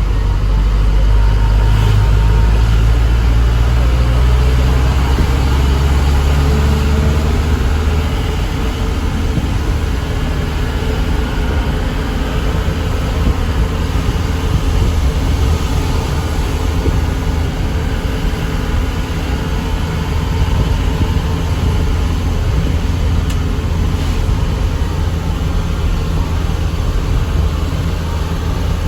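A truck's diesel engine running under way with road rumble. The low engine note shifts about seven seconds in, then the engine and road noise run on steadily.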